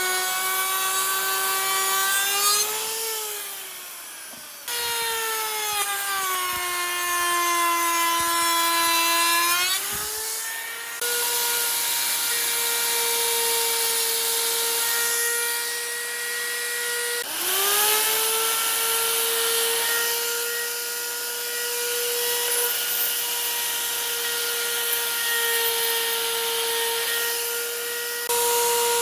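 An electric power tool's motor whines loudly as it cuts wood. Its pitch sags for several seconds while it is under load, then steadies higher. Near the middle it briefly dips and spins back up.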